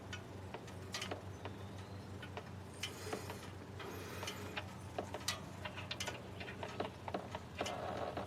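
Faint, irregular metal clicks and taps of a wrench working the oil drain plug loose under the car, over a low steady hum.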